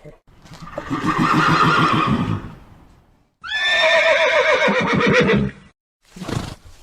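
Horse whinnying twice: a long call, then a second that starts high and falls away with a shaking quaver. A short, breathy sound follows near the end.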